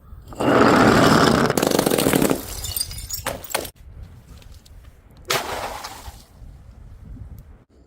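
Glass bottle smashing, a dense crash about half a second in that lasts about two seconds, followed by a couple of sharp knocks and a second, shorter crash of glass that fades out.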